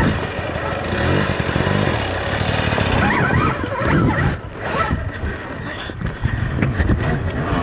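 Stark Varg electric dirt bike riding a rocky trail: its motor pitch rises and falls over and over as the throttle is worked, over a rough noisy bed of tyres on rock.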